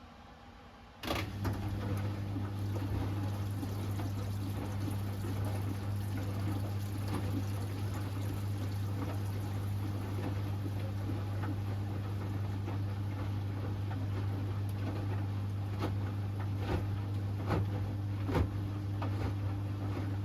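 Hoover Axi 10kg washing machine switching into a water stage about a second in: a steady electric hum with water running and gurgling through it, and a few sharp knocks near the end.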